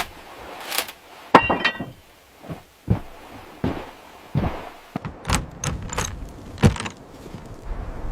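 A string of irregular knocks and clatters, about ten of them, the loudest a little over a second in and again near the end. The one a little over a second in carries a brief metallic ring.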